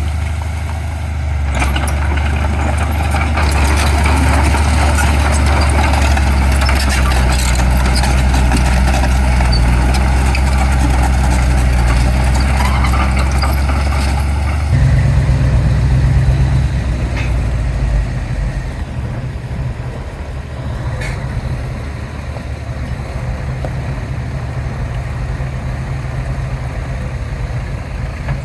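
Heavy diesel construction-machine engine running under load with a deep steady note and rattling clatter. The note shifts about halfway through, and a few seconds later it drops to a lower, quieter run.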